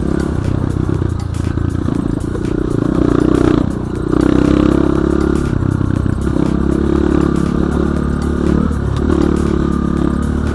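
BSE J1 enduro motorcycle engine running under changing throttle, with frequent clicks and rattles. The revs dip briefly a little before four seconds in, then pick up again.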